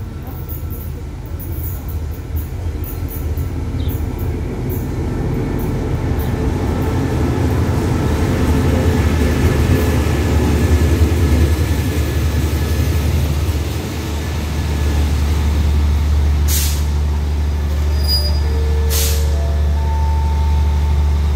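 Passenger train pulling into a station: a low rumble of the carriages rolling past builds up, then settles into a steady low hum as the train comes to a stop. Two short air-brake hisses sound near the end.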